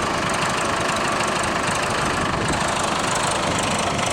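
Old farm tractor's engine running steadily at idle.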